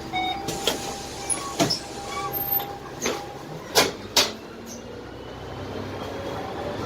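Inside a Dennis Trident double-decker bus under way, its Cummins ISMe diesel running steadily. A string of sharp knocks and rattles comes from the bus interior, the loudest two close together a little before halfway.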